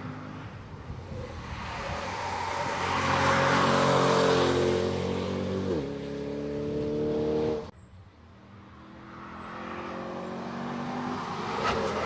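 Mid-engine Chevrolet Corvette C8 prototype accelerating hard on track, its engine pitch climbing and growing louder. About six seconds in, an upshift drops the pitch. The sound cuts off abruptly a little later, then an engine builds again, rising in pitch and loudness.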